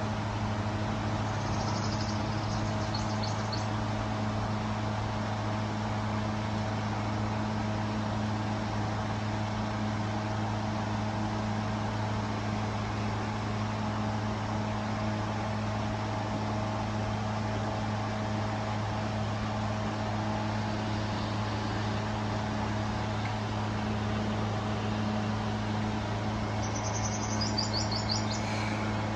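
A steady low mechanical hum that does not change, with short bird chirps about two seconds in and again near the end.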